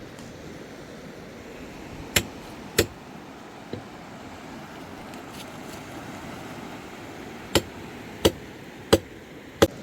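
Axe chopping wood: two sharp blows about two seconds in, a faint one shortly after, then four blows about two-thirds of a second apart near the end, over the steady rush of a river.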